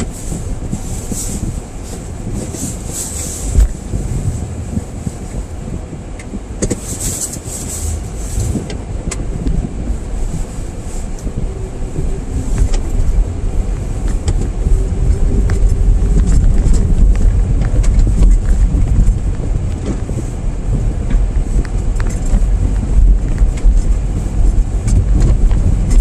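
A car driving on a snow-covered road, heard from inside the cabin: a steady low rumble of engine and tyres that grows louder about halfway through as the car picks up speed. A few short hissing bursts come in the first eight seconds.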